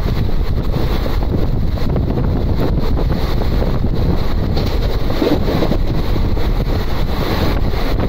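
Steady wind buffeting the microphone, over the continuous low rumble of an express train running at speed.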